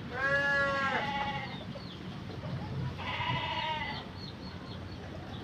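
Two bleats from a goat or sheep-type farm animal, each about a second long, the second coming about three seconds after the first.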